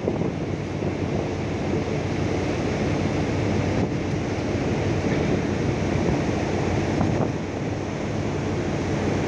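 Steady rush of wind and sea, with wind buffeting the microphone.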